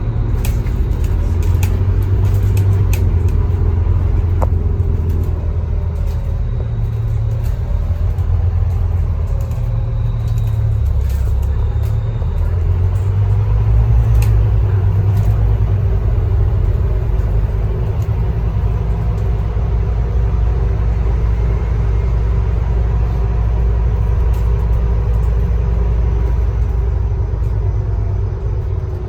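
Scania K310UB bus's diesel engine running with a steady low rumble as the bus drives, its pitch shifting now and then with engine speed. A few light clicks or rattles come in the first few seconds.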